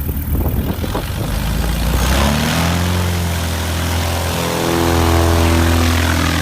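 Aircraft engine running, rumbling at first. About two seconds in its pitch rises, then holds steady.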